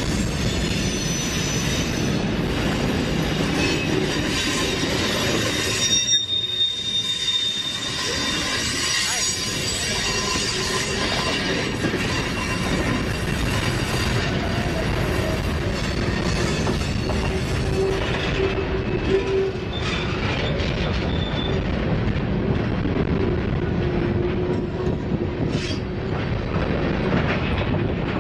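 Freight train cars rolling past at close range: a steady rumble of steel wheels on rail with clattering, and thin high wheel squeals that come and go.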